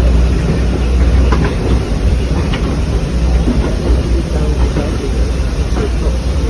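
A train on the line, a steady low rumble with scattered short clicks.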